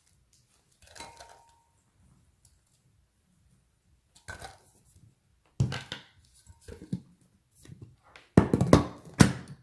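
Hard knocks and clinks of a small plastic food processor being handled on a kitchen counter, its parts fitted together. The knocks come sparsely at first, then several louder ones close together near the end.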